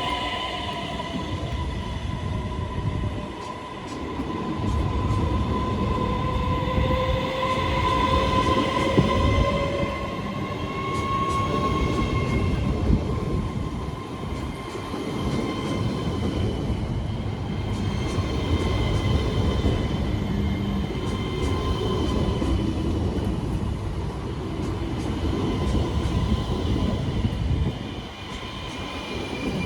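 Øresundståg X31K electric multiple-unit train moving through the station: a continuous low rumble from the wheels with several steady high whining tones, one of which slowly rises in pitch partway through.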